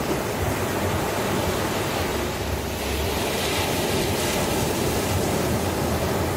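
Ocean waves breaking and washing on the shore in a steady wash of surf, with a swell that grows a little brighter about halfway through.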